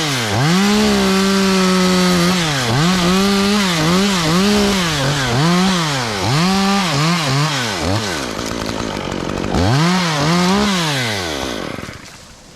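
Chainsaw cutting a tree limb at high revs, the engine pitch dropping and climbing back again and again. It eases off briefly about eight seconds in, revs up once more, then winds down near the end.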